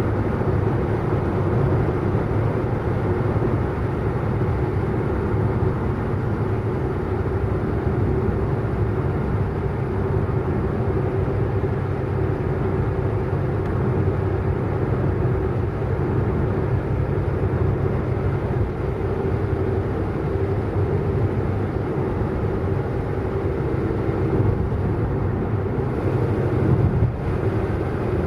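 Car driving fast: steady engine and road noise with a constant low hum that holds at an even level throughout.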